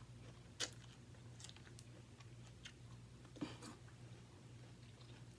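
Faint chewing of crisp food close to the microphone, most likely raw bean sprouts, with a couple of short crunchy clicks about half a second in and about three and a half seconds in, over a faint steady low hum.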